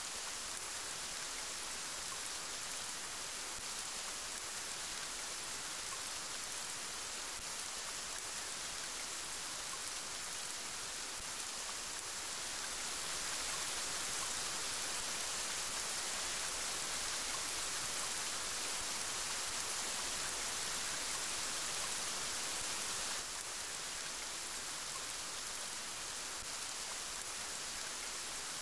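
Steady rain hiss with no distinct drops or rhythm. It grows a little louder about halfway through and drops back suddenly about two thirds of the way in.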